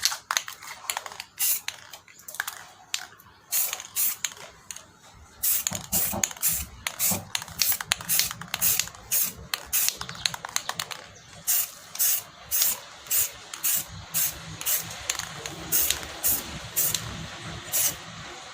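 Aerosol spray-paint can sprayed in a rapid series of short, light bursts, a hiss with each press of the nozzle, coming about two a second from roughly five seconds in. Spraying in light bursts like this keeps the coat neat.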